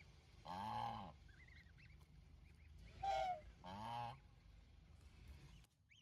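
Domestic goose honking three times: one call, then a pair of calls close together about two and a half seconds later. Faint high gosling peeps come in between.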